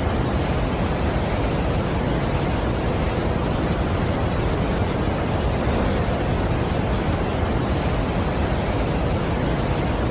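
Large waterfall's steady rush of falling water: an even noise with no breaks or changes, heaviest in the low end.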